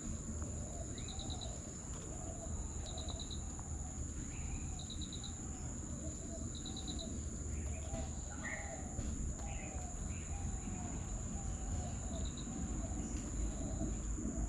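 Birds calling over insects: a steady high insect drone, a short rapid trill repeating about every two seconds for the first half, soft low calls coming several times a second, and a few scattered higher chirps, over a low rumble.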